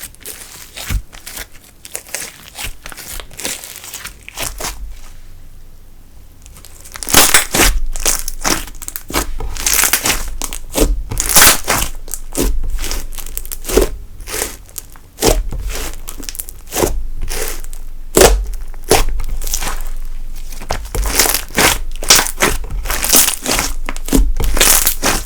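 Slime being squeezed and kneaded by hand: a run of sticky clicks and small popping crackles. Soft at first, with a short lull, then much louder and denser from about seven seconds in.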